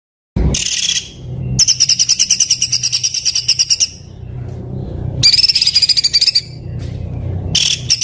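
Songbird singing fast, rough, tightly packed trills, the burst style called 'tembakan kasar', in four bursts of up to about two seconds each with short pauses between, over a steady low hum. It starts just after a brief silence at the very beginning.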